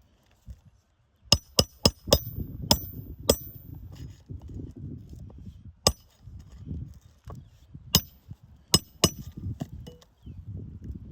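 Nails being driven into asphalt roof shingles: about ten sharp, ringing strikes, a quick run of four a little over a second in, then single and paired strikes spread out, over a low rumbling noise.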